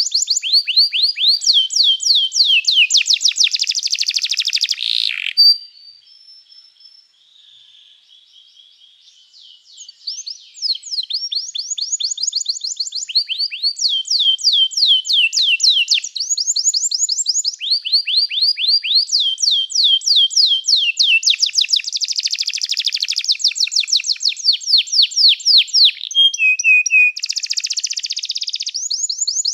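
Domestic canary singing long rolling phrases of rapid repeated notes, one trill running into the next. It breaks off about five seconds in and falls quiet for a few seconds, then starts up again and sings on.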